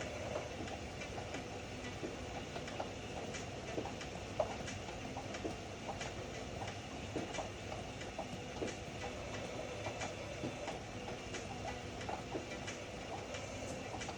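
Ariston AML125 washer-dryer running: a steady rumble with scattered light clicks and knocks throughout.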